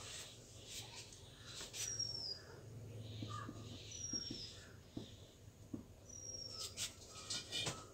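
A bird giving a short, high whistle that falls in pitch, three times about two and a half seconds apart, over the scratching of a marker writing on a whiteboard.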